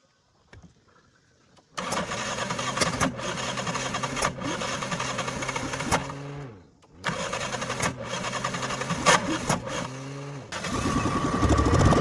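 Starter motor of an abandoned Toyota car cranking the engine in two long tries, each about four seconds, its whine sagging in pitch as it lets go. Near the end a louder, lower, pulsing engine sound starts: the engine catches and runs.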